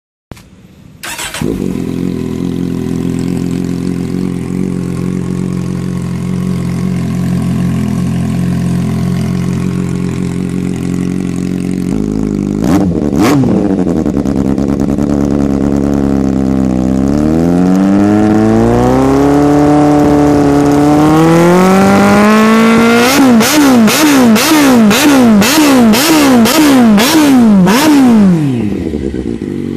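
Kawasaki Z800 inline-four motorcycle engine with an aftermarket exhaust starting up and idling steadily. It then revs slowly up and down a few times and finishes with a quick run of about nine sharp throttle blips.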